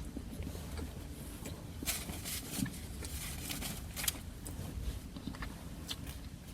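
Faint rustling and crinkling of a paper flyer being handled, with a few sharper crackles about two and four seconds in, over a low room rumble.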